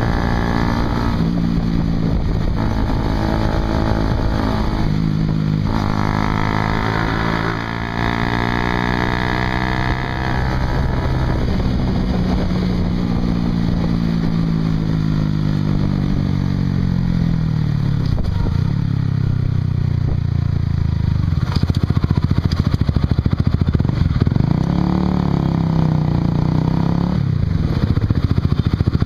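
Honda CBR150R's single-cylinder engine running through a Yoshimura exhaust while the bike is ridden. The engine note rises and falls with the throttle, with brief breaks in the sound at gear changes and a long falling note as the bike slows.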